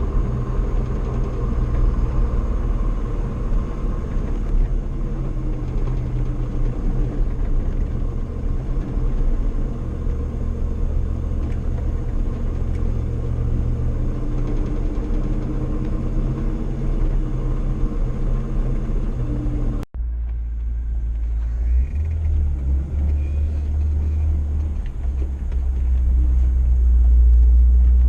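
Old pickup truck driving, its engine and road noise making a steady low rumble. About two-thirds of the way through the sound cuts and comes back as a deeper rumble that grows louder near the end.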